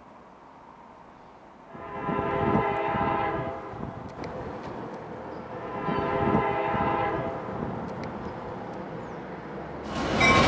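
Passenger train's horn sounding two long blasts, a few seconds apart. Near the end the train pulls in close by, a loud rolling rush with a high wheel squeal.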